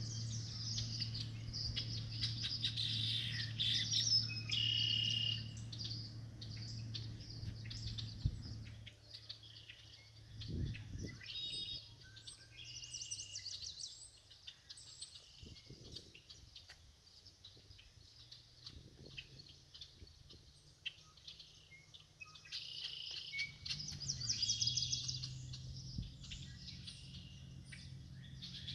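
A busy chorus of many wild birds calling and chirping at once, short overlapping calls, fullest in the first few seconds and again near the end. A steady low hum runs underneath for the first third and returns in the last quarter.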